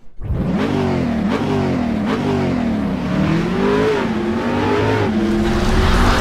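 Motor vehicle engine accelerating, its pitch climbing and then dropping sharply several times in the first two seconds as if shifting up through the gears, then rising more slowly and settling.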